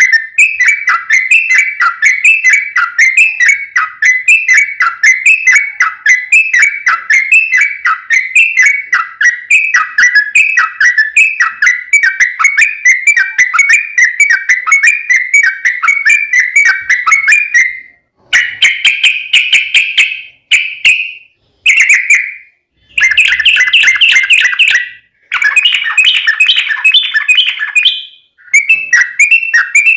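Yellow-vented bulbul (trucukan) singing a long, rapid song of short notes repeated several times a second. After about eighteen seconds it changes to louder chattering phrases, cut by sudden silences.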